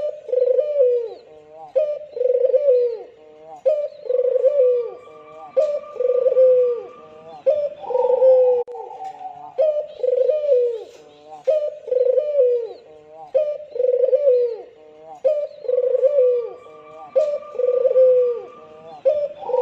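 White (albino) ringneck dove, the Indonesian puter, cooing over and over in a steady run of short, falling coos, several every few seconds, the sound used as a lure to set other doves calling.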